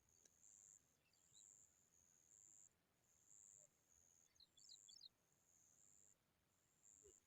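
Faint, high-pitched insect trilling in a steady run of short buzzing bursts, about one to two a second. A few faint, high bird chirps come in a quick cluster midway through.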